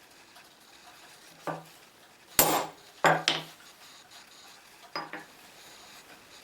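Metal objects clinking and clattering on a hard surface: about five separate knocks, the loudest around two and a half to three and a half seconds in.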